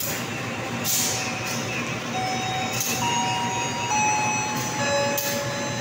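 Train noise in a station: a steady mechanical rumble with high whining tones that hold and then step to new pitches, and short hisses of air about one, three and five seconds in.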